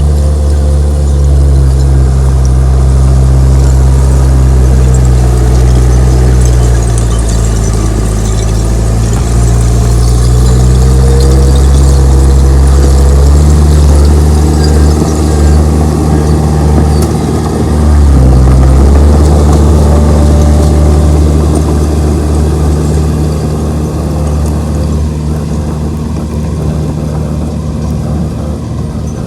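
Komatsu D31P crawler bulldozer's diesel engine running loud under changing load, its pitch rising and falling as it works. It dips briefly around two-thirds of the way through, then comes back strongly and eases off a little near the end.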